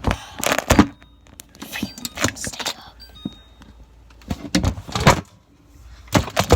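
Food containers and packages being handled and set down on refrigerator shelves: a series of knocks, thuds and clatters in several short clusters.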